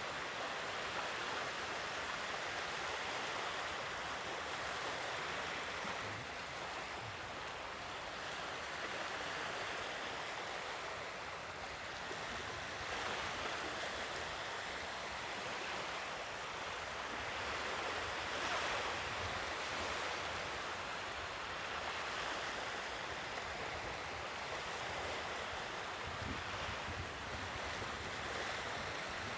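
Sea waves washing onto the shore, a steady rush of surf that swells and eases slowly, with some wind on the microphone.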